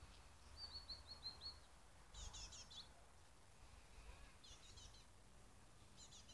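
Faint songbird chirping: a quick run of about six short high notes about a second in, then short bursts of chirps every couple of seconds.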